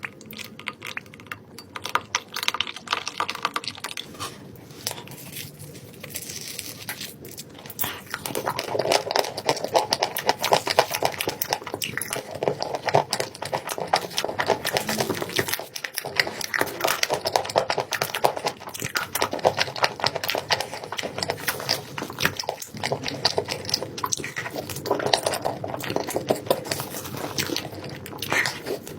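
Close-up sounds of someone eating chocolate cake: chewing and mouth sounds in a dense run of small clicks and crackles, louder from about eight seconds in.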